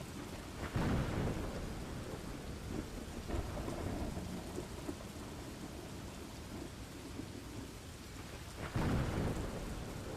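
Steady rain with two short rolls of thunder, one about a second in and another near the end.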